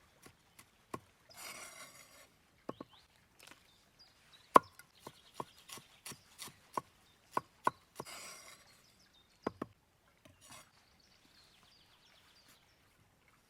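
Knife chopping ingredients on a wooden board: a string of sharp, irregular knocks, with two brief scraping rustles.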